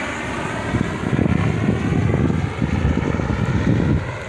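Wind buffeting the microphone, stronger from about a second in, over the faint steady drone of a tour helicopter flying nearby.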